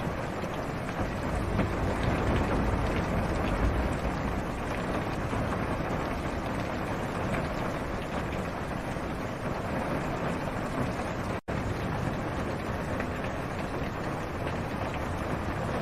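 Steady rain drumming on a car's roof and windshield, heard from inside the car, with a low rumble underneath. The sound cuts out for an instant about two-thirds of the way through.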